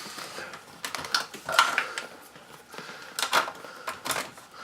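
Scattered clicks and knocks of a 12-volt plug and its cord being handled and pushed into a car's cigarette lighter socket, several separate sharp clicks with no motor running.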